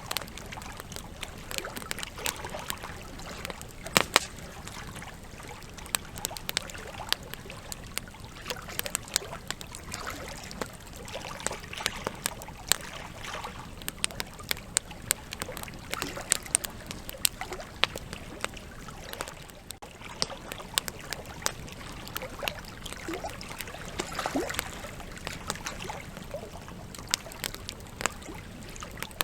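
Wood campfire burning, with a steady low hiss and rumble under frequent, irregular crackles and sharp pops from the burning logs.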